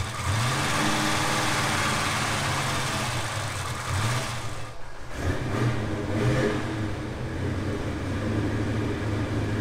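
Twin-turbocharged, fuel-injected V8 of a 1957 Chevrolet Bel Air idling, with a few short rises in engine speed. It runs quieter now that its exhaust leak has been repaired.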